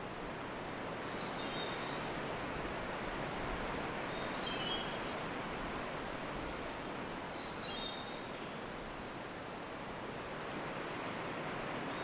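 Field recording of a three-wattled bellbird: faint, short, high whistled phrases of a few stepped notes, repeated about every three seconds. Steady forest background hiss lies under them.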